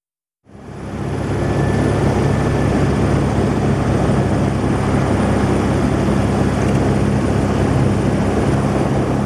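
Helicopter in flight: steady, loud rotor and engine noise with a low hum and a thin high whine, fading in about half a second in.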